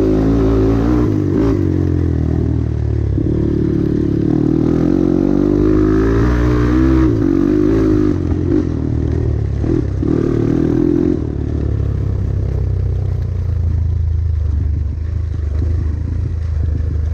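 Off-road motorcycle engine running with the throttle rising and falling, along with some clatter. About eleven seconds in the engine note drops and settles to a quieter, lower running.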